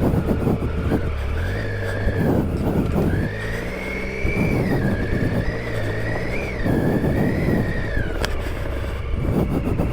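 Triumph Tiger 800 XCa's inline three-cylinder engine running off-road under changing throttle, with the revs surging up several times. A high, wavering whine runs over it.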